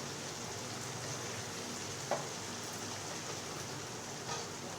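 Chicken curry sizzling steadily in a covered pan on a low flame, with a single short tap about two seconds in.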